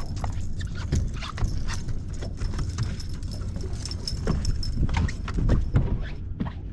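Irregular knocks and clatter on the deck of a fishing boat, over a steady low rumble.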